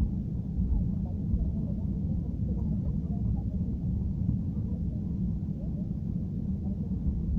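Airliner cabin noise heard from a passenger seat: a steady low rumble of the jet engines and airframe as the plane moves toward or into takeoff.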